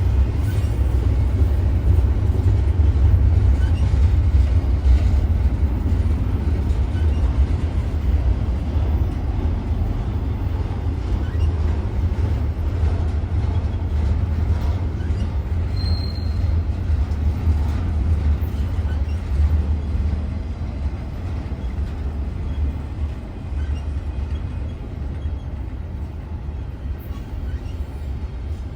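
Freight train rolling by with a steady low rumble that slowly fades.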